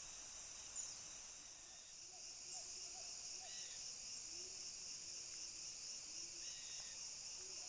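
Steady high-pitched drone of insects, with faint short bird calls scattered through it.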